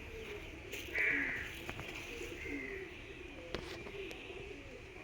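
Domestic pigeons cooing, repeated low coos, with a brief louder, higher-pitched bird call about a second in.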